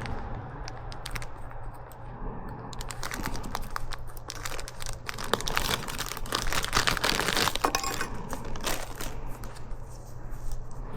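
Clicking and rattling of metal hand tools being handled and worked: a dense run of quick clicks from about three to nine seconds in, with rustling underneath.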